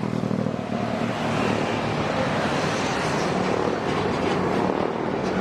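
A heavy diesel truck driving past, its engine running under load alongside steady tyre and road noise.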